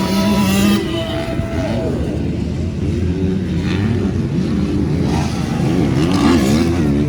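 Motocross bikes racing, their engines revving with several overlapping notes that hold and then rise and fall repeatedly as riders open and close the throttle.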